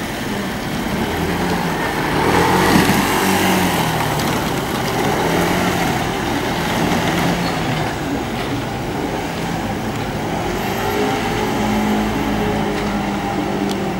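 Motorcycle engines running as they pass along the street, one rising in pitch about two and a half seconds in, over a steady traffic rumble.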